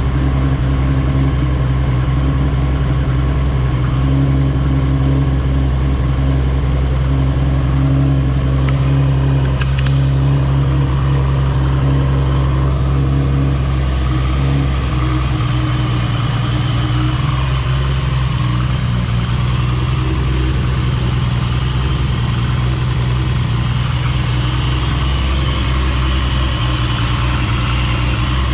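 Toyota Supra's 2JZ-GTE straight-six idling steadily just after start-up. A brighter hiss joins about halfway through.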